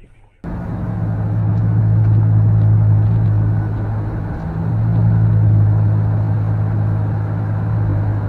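A car driving, with a steady low engine and road drone that starts abruptly about half a second in.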